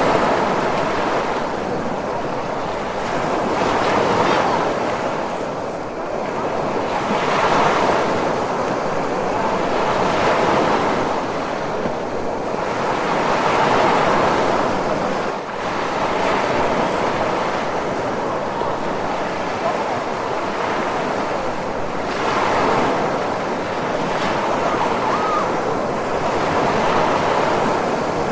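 Ocean surf: a continuous wash of breaking waves that swells and fades every few seconds.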